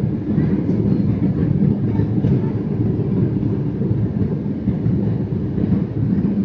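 Steady low rumble of an airliner in flight, the even engine and airflow noise heard inside the cabin.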